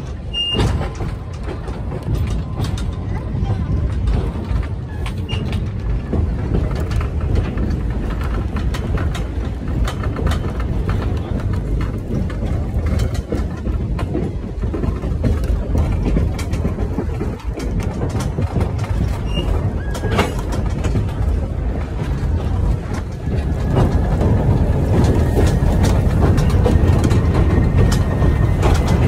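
Passenger train rolling along the track: a steady low rumble with scattered clicks from the wheels on the rails. About three-quarters of the way through it grows louder and a thin, steady high whine joins in.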